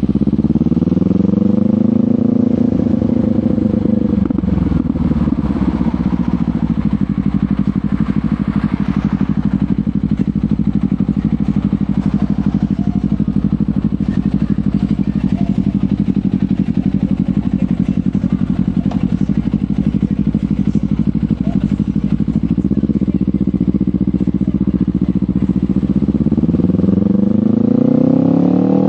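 Kawasaki Ninja 500 parallel-twin engine through a LeoVince GP Corsa Evo slip-on exhaust, under way: it picks up speed in the first couple of seconds, holds a steady engine speed for about twenty seconds, then revs up again near the end.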